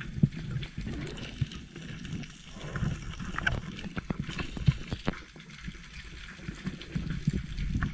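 Water gurgling and sloshing close to the camera, with scattered sharp clicks and knocks.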